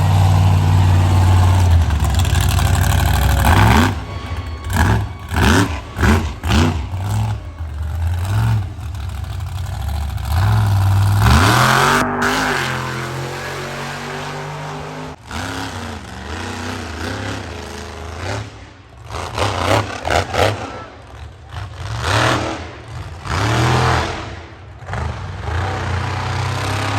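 Monster truck engine running loud, revved in a string of short blips, with a long rising rev about eleven seconds in and more blips near the end.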